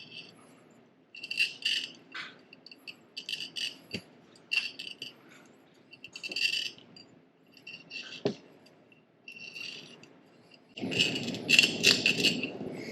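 Glass cutter scoring a thick champagne bottle: a series of short scraping strokes about a second apart, with a couple of sharp clicks, growing louder and denser near the end. The lines are cut to weaken the glass so the bottle breaks on the first strike.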